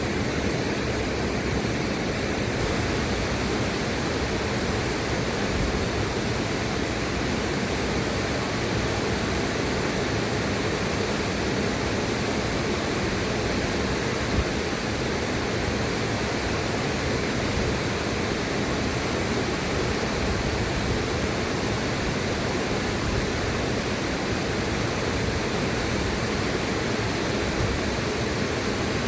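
River water rushing steadily, an even, unbroken hiss with no separate splashes or changes.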